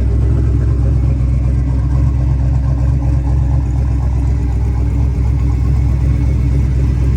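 Twin-turbo 5.3-litre LS V8 in a 1971 Chevrolet C-10 idling steadily with a low, even rumble.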